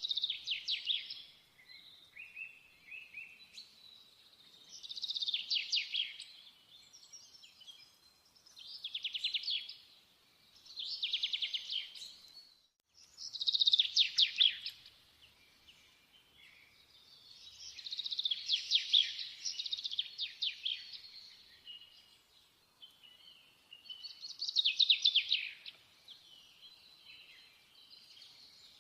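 Bird song: short phrases of rapid, high trills, repeated every few seconds.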